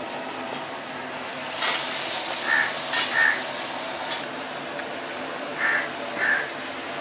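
Gram-flour-battered bread slice sizzling in hot vegetable oil in a kadai, a loud sizzle breaking out about a second and a half in and easing back to a quieter fry after a few seconds. Crows caw in pairs twice over it.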